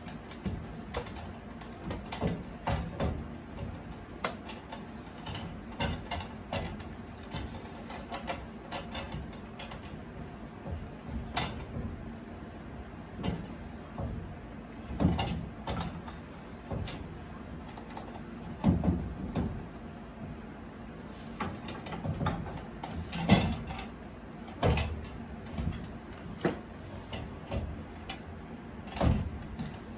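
Flexible water heater supply line being bent and worked into place by hand, with irregular clicks, creaks and knocks of metal parts, several sharper knocks standing out.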